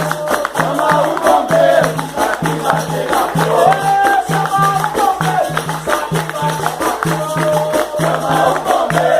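Capoeira roda music: voices singing a melody over percussion that keeps a steady, repeating beat.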